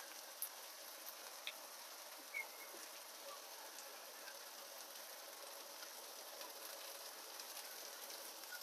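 Faint, steady sizzle of sliced onions and garlic frying in oil in a wok, with a few small pops.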